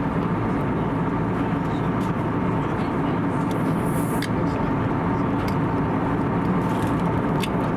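Steady cabin drone of an Airbus A320neo in flight, from its CFM LEAP-1A engines and the airflow around the fuselage, holding one even level.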